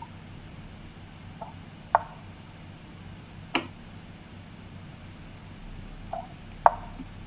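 Scattered sharp clicks and taps, about seven in all at irregular intervals, the loudest near the start and near the end, over a faint steady low hum.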